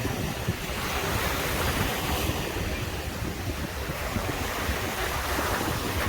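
Caribbean surf breaking and washing up the beach: a continuous hiss of water that swells twice, about a second in and again near the end. Underneath, a low, uneven rumble of wind on the microphone.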